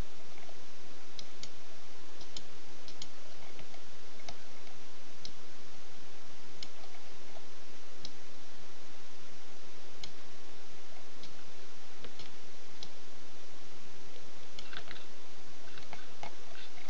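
Scattered, irregular light clicks of computer input, a mouse and keyboard being worked, over a steady microphone hiss with a faint constant hum.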